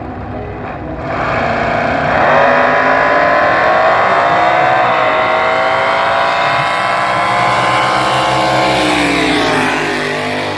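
A front-engine dragster's V8 at high revs. It climbs in pitch over the first few seconds, holds high and steady, then drops in pitch near the end as the throttle comes off.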